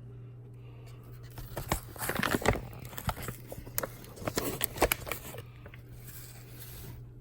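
Crinkling, tearing and clicking of packaging and small objects being handled while coffee is prepared, in a quick irregular cluster over a steady low appliance hum.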